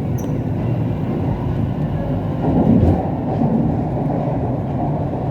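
Siemens Inspiro metro train running between stations, heard from inside the car: a steady rumble of wheels on rail, with a brief swell about two and a half seconds in.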